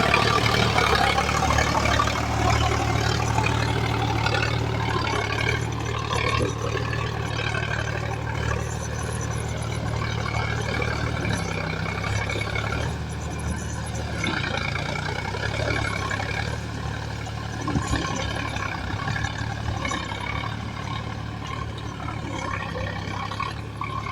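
Heavy diesel engine running steadily, a low hum with a wavering mid-pitched whine over it, a little louder in the first few seconds.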